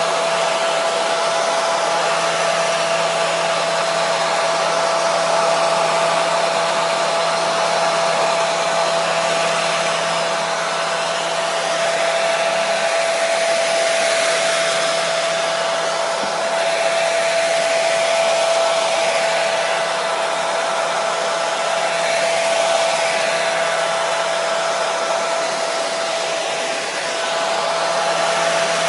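Hair dryer running continuously: a steady rush of blown air with a constant whine from its motor and fan and a low hum beneath, swelling and easing slightly now and then.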